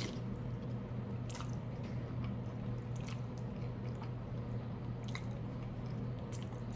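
A person chewing food close to the microphone, with a handful of brief wet mouth clicks and smacks, over a steady low hum.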